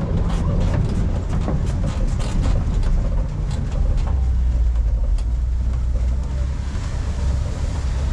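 Safari truck driving along, heard from on board: a steady low engine and road rumble with scattered clicks and rattles from the vehicle's body.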